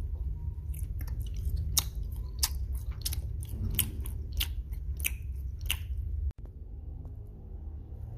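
Close-miked chewing of a soft gummy burger candy: wet mouth clicks and smacks about every half second, over a low steady hum. The smacks stop a little before six seconds in.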